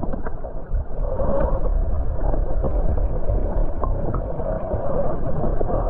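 Stream water churning, heard heavily muffled as if the microphone is dipped underwater while a brook trout is released: a low, dense rushing rumble with scattered light knocks and clicks.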